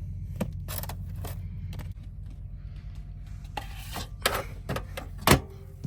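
Steady low hum of an idling truck engine under a series of sharp clicks and knocks from objects being handled, the loudest a little after five seconds in.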